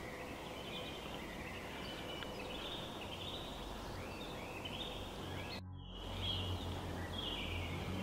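Faint birdsong: repeated short chirps and descending trills over a steady background hiss. The sound drops out briefly a little after five seconds, and a low hum comes in after it.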